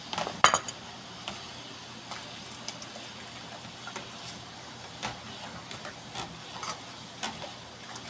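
Spoon clinking and scraping against a cooking pot while stirring a thickened, cornstarch-bound chicken asado sauce, with a sharp clank about half a second in and lighter taps every second or so.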